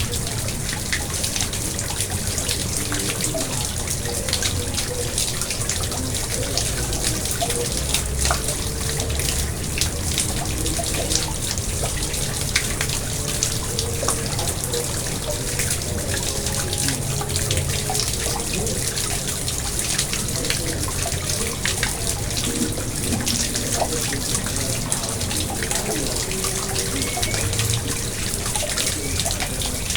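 Water in a garden pond trickling and splashing steadily, with many small drips and splashes.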